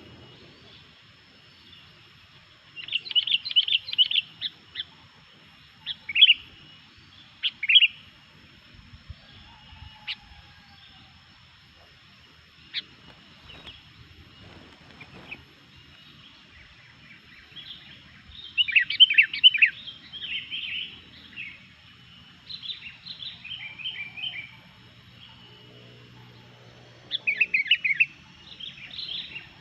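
Sooty-headed bulbul singing in bursts of quick, bubbly chirping phrases, about six bursts separated by pauses of a few seconds. This is the prolific 'gacor' song that bird keepers play to rouse other bulbuls.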